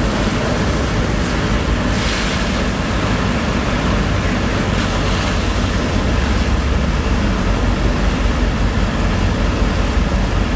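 Engine of a sand-pumping rig running steadily, under a loud rush of water and sand being pumped.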